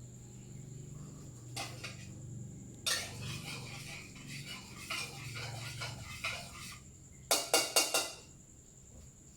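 Cooking utensils clattering against dishes and pans, then a quick run of four sharp knocks, like a utensil rapped on a pan's rim, about seven seconds in.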